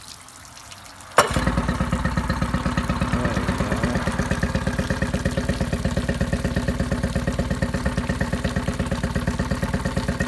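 2007 Yamaha 8 hp outboard kicker motor started on its electric starter: it catches at once about a second in, then runs at a steady, even idle.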